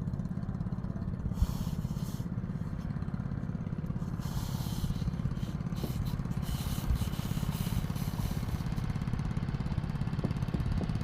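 Strong wind buffeting the microphone as a steady low rumble, with a few brief rustling scrapes.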